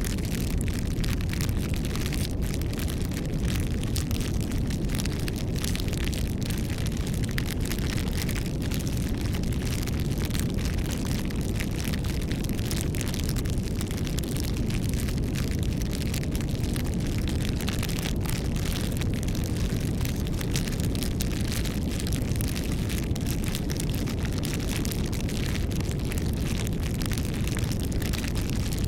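Campfire burning: a steady low rumble of flames with a dense, continuous patter of small crackles and pops from the burning wood.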